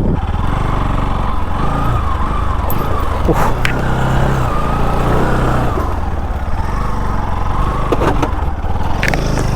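Motorcycle engine running over a rough off-road track, its revs rising and falling, with a few sharp knocks from the bumps.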